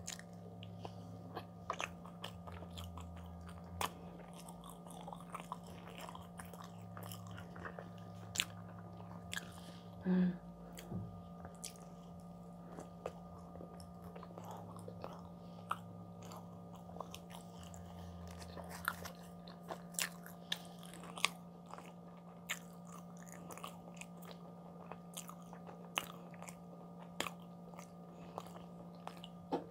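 Close-miked chewing of soft bread, with frequent wet mouth clicks and lip smacks over a faint steady hum. A brief louder sound comes about ten seconds in.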